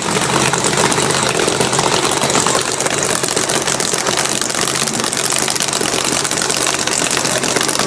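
A car engine idling steadily, with a dense hiss over it.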